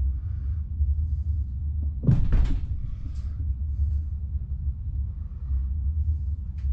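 Steady low rumble of a moving passenger train, heard from inside the coach, with a single short knock or clatter about two seconds in.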